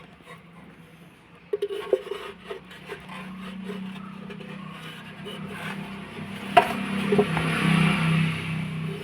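Sludge being scraped and scooped out of an engine's removed metal oil pan by hand: scraping and rubbing with scattered knocks against the pan, a sharp knock about six and a half seconds in, then louder scraping. The thick, gritty sludge is a sign of a choked oil strainer starving the engine of oil, which the mechanic takes for the cause of its knocking.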